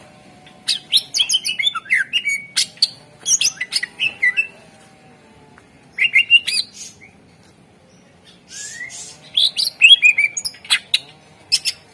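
Greater green leafbird (cucak ijo) singing in loud, rapid bouts of sharp, sweeping chatter and whistled notes, three bursts with short pauses between them.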